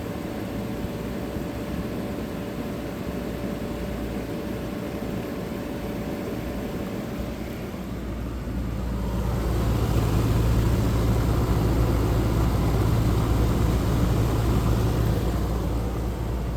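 1985 White Westinghouse 5900 BTU window air conditioner running: a steady fan rush over the hum of its rotary compressor. About eight to ten seconds in the sound grows louder, with a stronger low hum.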